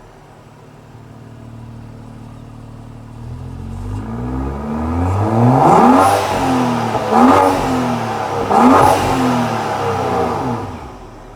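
BMW ActiveHybrid 3's turbocharged straight-six breathing through an aftermarket Akrapovič exhaust, idling and then revved: the note climbs over a few seconds to three sharp blips about a second and a half apart, then drops back to idle.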